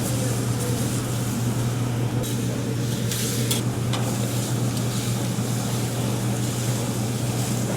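Food sizzling on a hibachi griddle over a steady low hum, with a louder burst of hissing from about two to nearly four seconds in.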